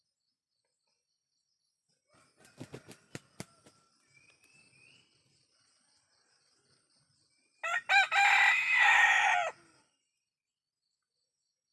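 Ayam kampung rooster crowing once, a loud call about two seconds long, starting about two-thirds of the way in. A few sharp knocks come earlier, with a faint steady high insect-like whine behind.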